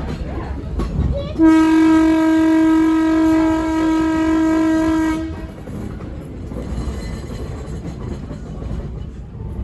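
Locomotive horn sounding one long steady blast of about four seconds, starting a little over a second in, over the low rumble and clickety-clack of the train rolling along the track.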